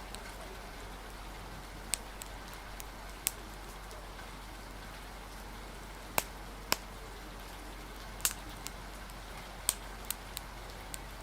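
Steady hiss of rain with a crackling fire, whose sharp pops come at irregular moments, about ten times.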